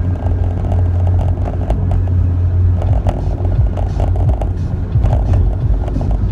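Steady low rumble of road and engine noise inside a moving car's cabin, with scattered small clicks and rattles.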